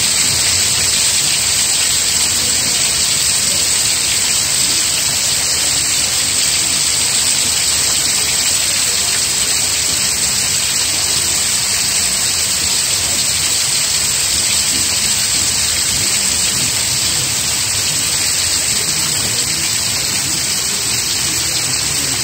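Steady rain falling, an even hiss with no breaks or single events.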